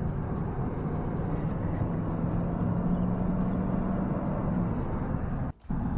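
Steady engine and road drone of a vehicle driving, low and even, with a brief cut-out about five and a half seconds in.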